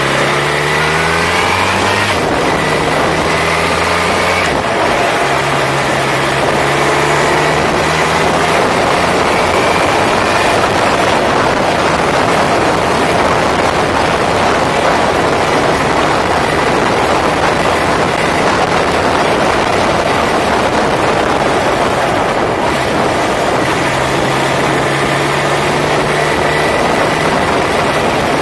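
Motorcycle engine pulling away, its pitch rising through the gears in the first couple of seconds, then running steadily at road speed under heavy rushing wind and road noise on the microphone.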